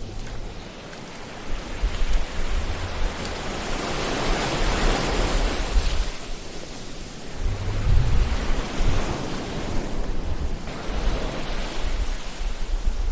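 Ocean waves washing on a shore, the surf swelling and ebbing in slow surges with a low rumble beneath.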